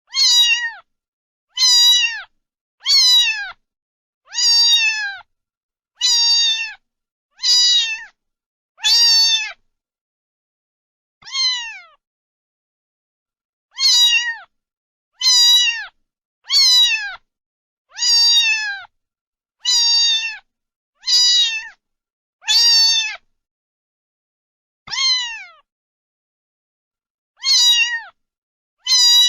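A cat meowing again and again, high and insistent. Each meow slides down in pitch, and they come about once a second in runs broken by a couple of short pauses.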